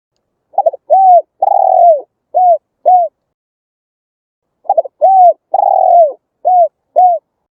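Spotted dove cooing its full song phrase twice: each phrase opens with a short stutter, then a coo, a long drawn coo that falls away at the end, and two short coos. The phrases are about a second and a half apart.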